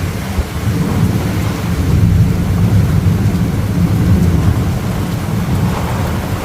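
Thunder rumbling loud and low without a break, swelling a little about two seconds in.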